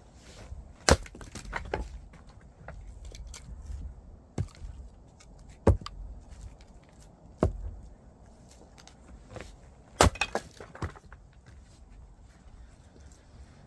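Firewood being split: irregular sharp knocks and cracks of wood, the loudest about a second in, near six seconds, and a quick cluster around ten seconds.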